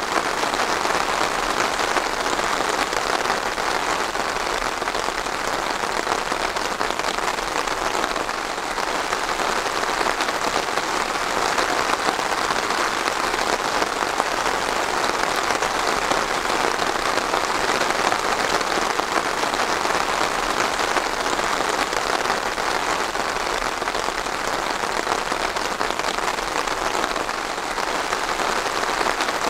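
Steady rain falling, a dense, even patter.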